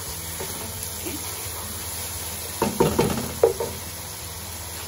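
Chicken pieces with tomato and biryani masala sizzling in oil in a non-stick pot while being stirred with a wooden spatula. A few sharp knocks of the spatula against the pot come just past the middle.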